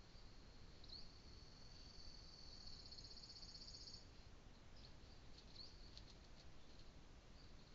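Faint high-pitched bird calls: a thin trill lasting about three seconds, quickening into a rapid flutter at its end, then a few scattered short chirps, over a steady low hiss.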